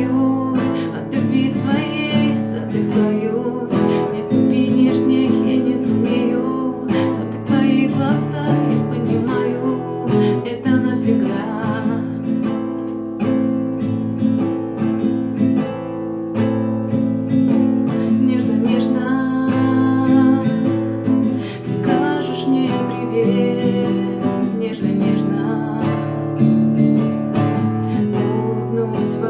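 Acoustic guitar strummed in a steady rhythm, accompanying singing.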